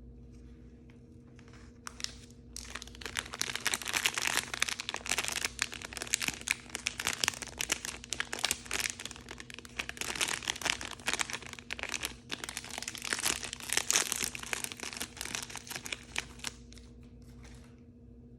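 Plastic blind-bag packaging being crinkled and torn open by hand. A dense crackle of crumpling starts about two seconds in and dies away near the end.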